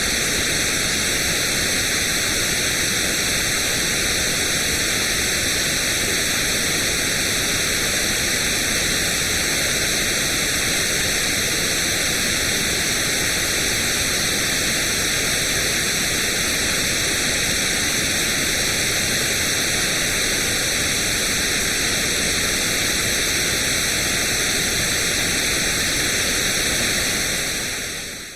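Steady white noise for infant sleep: an even, unbroken hiss, strongest in the upper range, that fades out near the end.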